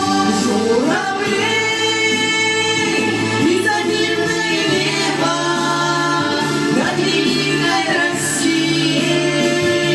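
Song with singing over musical accompaniment: a voice or voices holding long, gliding notes without clear words, above a steady bass line.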